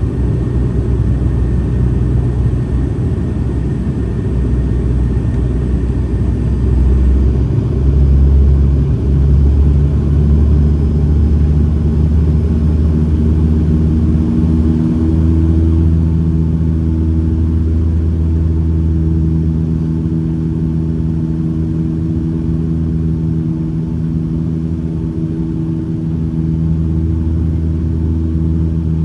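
Airliner engines heard from inside the passenger cabin: a steady low drone and rumble. About a quarter of the way in it swells, and then several steady humming tones set in and hold as the engine power changes on the approach.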